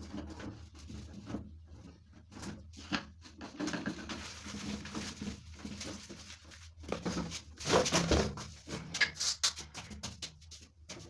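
Irregular knocks, clicks and scrapes of objects being handled, busiest and loudest about eight to nine seconds in.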